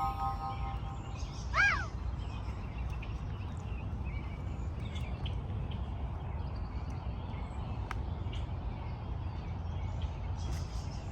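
Outdoor park ambience: a steady low rumble with faint, scattered bird calls. The last held tones of an electronic intro fade out right at the start, and a short rising-and-falling whistle sounds about a second and a half in.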